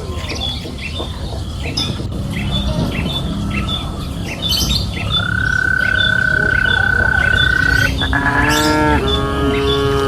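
A cow mooing with one long call that starts near the end and rises slightly in pitch. A bird chirps about twice a second throughout, and a long steady high tone sounds in the middle.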